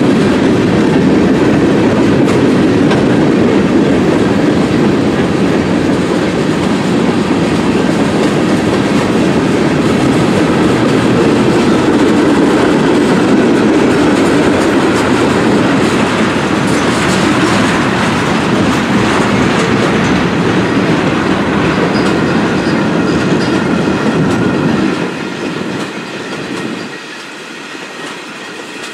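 Freight train cars rolling past at close range, wheels clicking over the rail joints with a steady rumble. The sound drops off sharply twice near the end.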